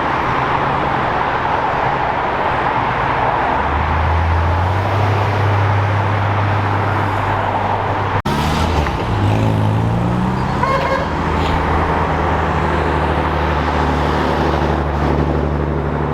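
Car engines running as cars drive out, one revving up with a rising pitch about nine seconds in before settling into a steady drone.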